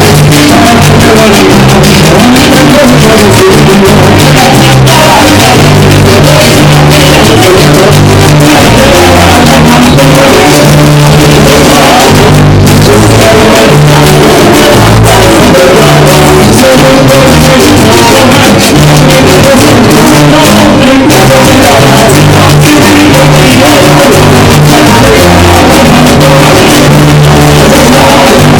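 Loud Latin American music played by a live group, with singing over a steady bass line and rhythm.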